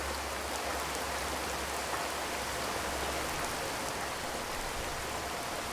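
Steady rain drumming on a corrugated zinc (galvanised metal) roof, a dense even patter of drops with no thunder.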